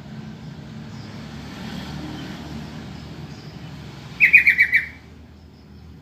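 Yellow-vented bulbul (trucukan) calling: one quick, loud string of about six chattering notes about four seconds in, over a low steady rumble.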